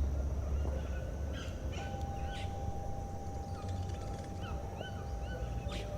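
Small birds chirping in short rising notes over a low outdoor rumble. A thin steady hum sets in about two seconds in.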